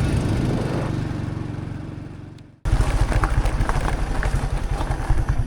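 Small motorbike engine running under way with rushing wind noise. The sound fades out about two and a half seconds in, then cuts back in abruptly with the engine pulsing steadily again.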